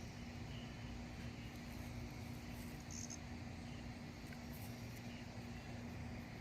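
Quiet outdoor background: a steady low rumble with a faint steady hum, and a brief high chirp about three seconds in.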